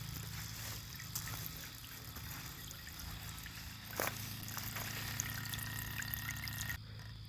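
Small solar fountain pump in a bird bath spraying water that trickles and drips back into the basin. The splashing thins out near the end.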